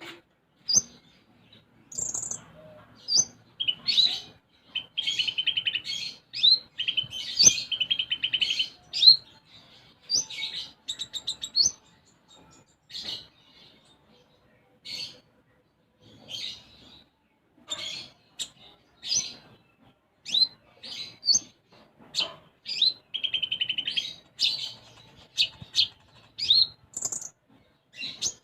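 A konin songbird singing busily: rapid bursts of sharp chirps and quick up-slurred notes mixed with buzzy trilled runs, including sparrow-like chirping phrases in its repertoire. The song pauses briefly midway, then resumes.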